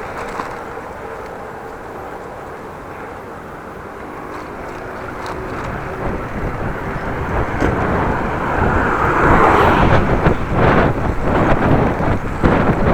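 Strong wind rushing and buffeting the microphone of a moving bicycle, building up about halfway through into loud, gusty bursts.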